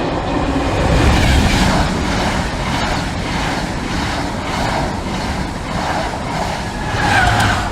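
A Class 90 electric-locomotive-hauled passenger train with a driving van trailer runs through the station at speed without stopping. Its wheels and the air it pushes make a loud, steady rushing noise, with a rhythmic clatter of wheels over the rail, easing off near the end.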